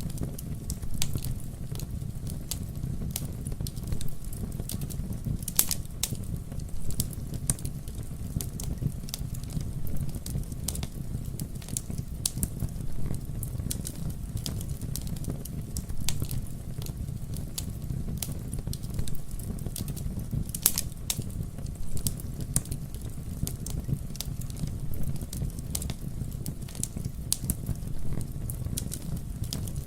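Campfire burning: a steady low rumble of flames with frequent sharp, irregular crackles and pops of burning wood, a few louder snaps among them.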